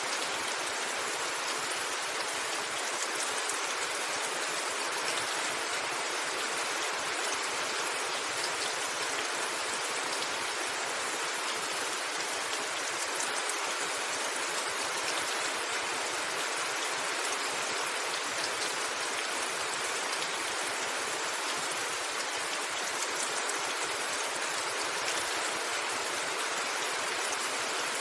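Steady rain falling on a roof: an even, unbroken hiss with faint ticks of individual drops.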